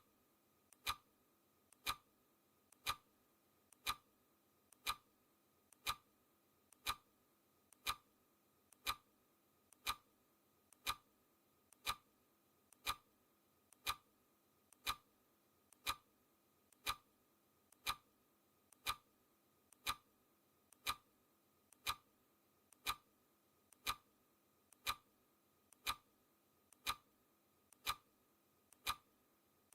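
Clock-style ticking of a countdown timer's sound effect: one sharp tick a second, steady and even.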